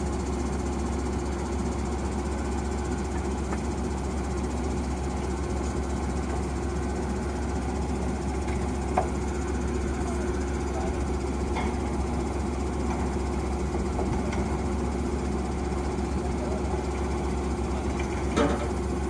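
Borewell drilling rig's engine running steadily, a constant drone, with a sharp knock about halfway through and a brief louder clatter near the end.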